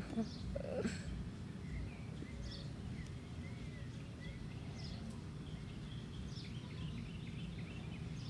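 Faint birds chirping outdoors: scattered short chirps and small whistled glides, more of them in the second half, over a steady low rumble of outdoor background noise.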